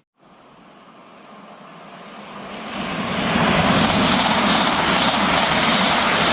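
Electric passenger train approaching and passing through the station, its noise building over about three seconds into a loud, steady rush.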